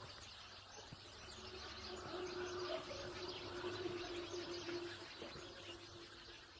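Birds chirping faintly in the background, with a faint steady hum that starts about a second in.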